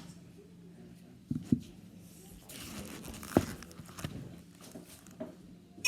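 Faint rustling and crinkling handling noise with a few soft knocks, the loudest about a third and halfway through.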